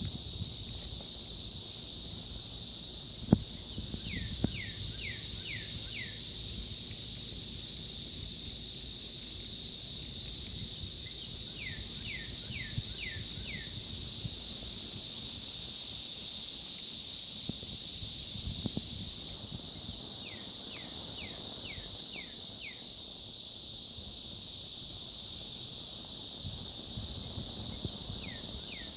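Dense chorus of emerging cicadas: a loud, steady, high-pitched drone with no breaks. A short series of five or six quick chirps recurs about every eight seconds beneath it.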